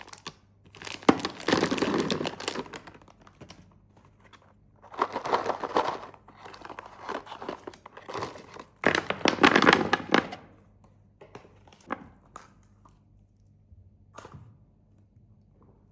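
Snack wrappers being crinkled and torn open by hand in three loud bouts of rustling, followed by a few light knocks near the end.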